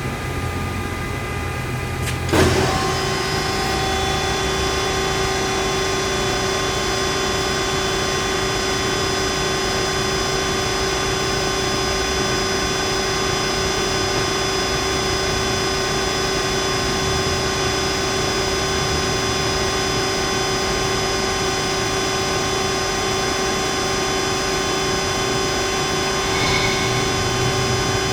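HEM VT125HA-1 vertical tilt-frame band saw running: a steady machine hum with several whining tones. About two seconds in there is a sharp clunk, and a further steady hum joins and holds.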